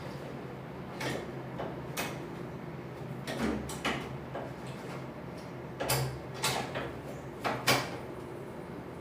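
Irregular knocks and clatters of stove parts and tools being handled during a stove repair, about eight in all, the loudest near the end, over a steady low hum.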